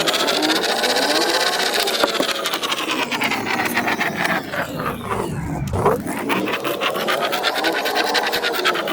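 Plastic Spirograph gear wheel rolling around its ring while a pen traces a pattern: a rapid ticking of gear teeth mixed with pen scratching on paper. Its pitch rises and falls with the speed of the stroke, sinking to a low point a little past halfway before climbing again.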